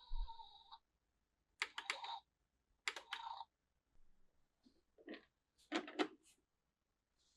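Hard plastic toy parts clicking and tapping as they are handled, in four short clusters of sharp clicks. A ringing tone fades out in the first second.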